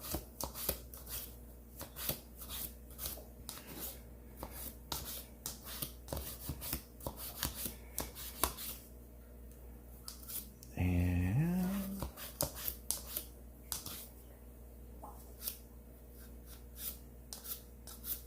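Toothbrush bristles scrubbing caked dirt off a blower fan assembly in short, uneven scratchy strokes. About eleven seconds in there is a brief hum whose pitch rises, lasting about a second.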